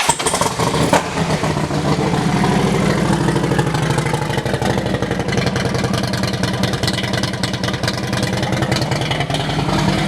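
Harley-Davidson CVO Road Glide's 110 cubic inch V-twin, fitted with a 2-into-1 performance exhaust, fires up at the start and then idles steadily with a dense, even pulse.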